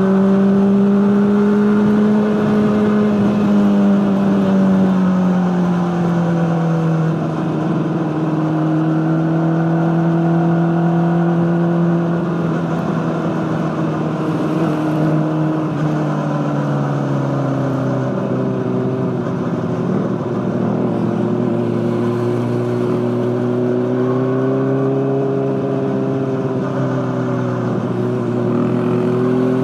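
Honda CBR600RR inline-four engine running through an Akrapovic exhaust at steady mid revs. Its pitch sags slowly in steps through the middle and climbs a little again near the end.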